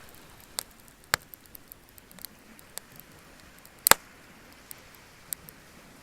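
Wood bonfire crackling: scattered sharp pops at an irregular pace, the loudest about four seconds in, over a faint steady hiss.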